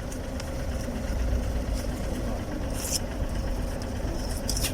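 Steady low rumble of background noise, with two brief high rustles, about three seconds in and near the end.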